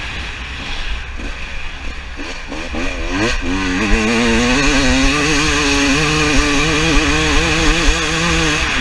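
Two-stroke KTM 300 TPI dirt bike engine revving: low and uneven at first, the revs climb steeply about three seconds in, then hold high with slight wavering before easing off near the end. A steady low rumble of wind on the microphone runs underneath.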